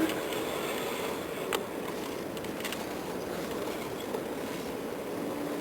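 Steady noise of city traffic, with a single click about a second and a half in; a low steady hum sets in near the end.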